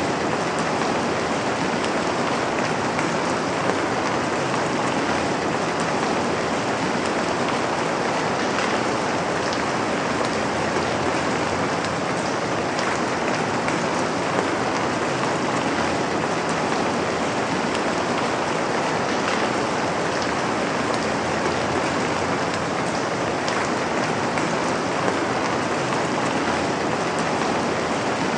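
Steady rain falling on a surface, a constant dense hiss with faint scattered drop ticks throughout.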